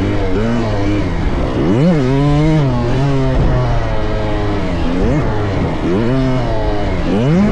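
Dirt bike engine revving up and down on a motocross track, its pitch swooping as the throttle is worked. It climbs sharply about two seconds in and again near the end.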